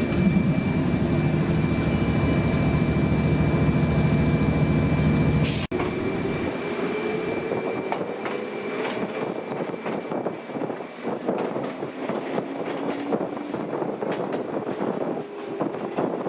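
Old JNR-type electric train running on the rails, with steady whining tones over the rumble. About six seconds in, the sound cuts off abruptly and gives way to a noisier, more uneven train rumble.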